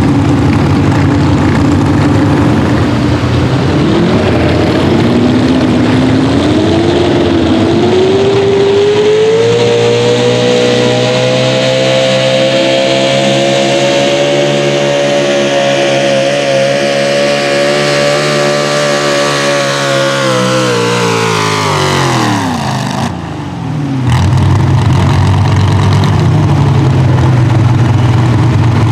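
Pro Stock four-wheel-drive pulling truck's engine winding up to high revs, holding them steady for about ten seconds under the load of the sled, then dropping off as the pull ends. After a short break it is heard again running at low revs.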